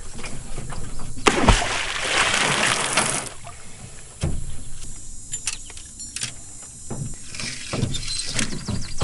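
Water splashing and sloshing at a jon boat, with a few sharp knocks. The biggest splash starts about a second in and lasts around two seconds.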